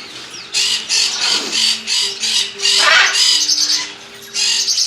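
Parrots squawking: a quick run of harsh, high calls about two a second, a lull after about three seconds, then a couple more near the end.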